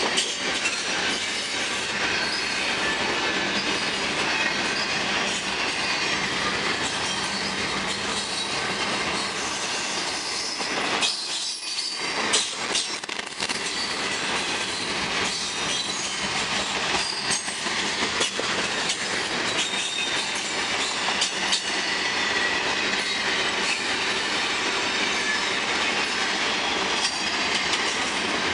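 Double-stack container well cars of a freight train rolling past close by: a steady clatter of steel wheels on the rails, with thin, high wheel squeals here and there.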